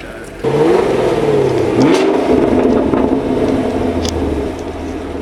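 A car engine comes in suddenly and loudly about half a second in, revs up and down a couple of times, then settles to a steadier, quieter running tone near the end.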